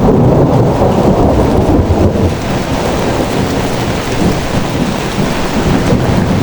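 Heavy rain pouring, with a low, continuous rumble of thunder.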